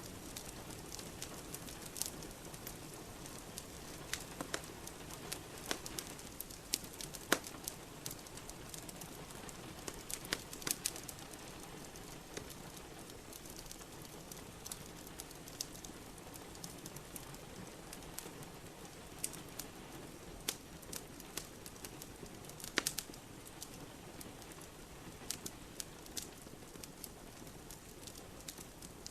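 Steady rain with a wood fire crackling in a fireplace, sharp pops coming irregularly over the rain, a few of them louder than the rest.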